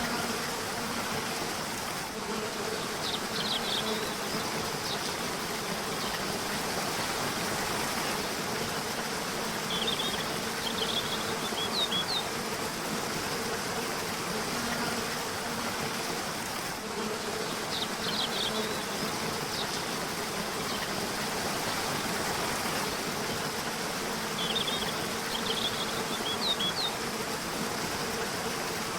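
River water rushing steadily, with short clusters of bird chirps that return about every seven seconds and a low steady buzz underneath.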